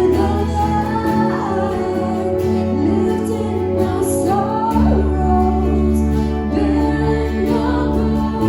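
Worship music: a sung melody over sustained keyboard chords and a steady bass line, with the bass shifting to a new note a little past halfway.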